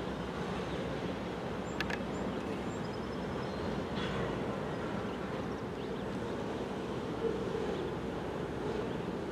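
Distant freight train running, a steady rumble with a couple of faint clicks about two seconds in.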